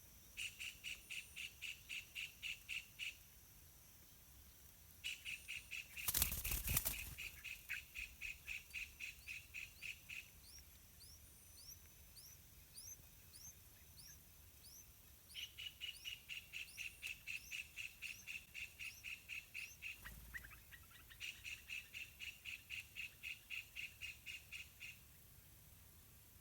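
Birds calling: a clear high note repeated rapidly, about five a second, in bouts of several seconds, with a run of short upward-sweeping chirps between bouts. A loud brief rush of noise comes about six seconds in.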